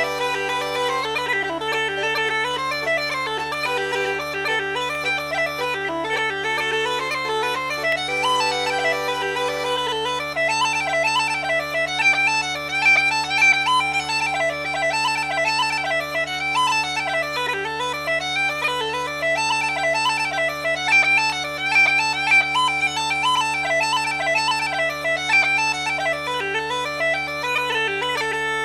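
Uilleann pipes playing a fast reel: a quick, ornamented chanter melody over steady drones.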